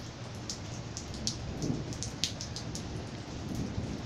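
Rain falling steadily in a thunderstorm, with irregular sharp taps of drops hitting a nearby surface.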